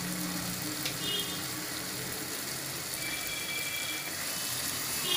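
Onion-tomato masala with butter and fresh cream on top sizzling steadily in a kadai, with a small click about a second in.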